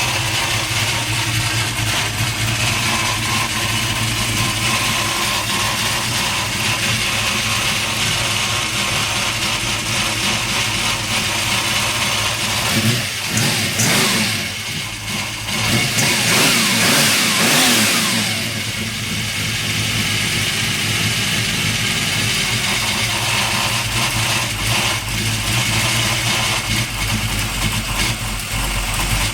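A 383 stroker V8 engine idling steadily, blipped up in revs twice a little under halfway through, then settling back to idle.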